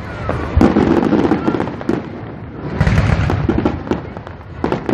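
Aerial fireworks bursting, with dense crackling throughout. There are deep booms about half a second in and again around three seconds in.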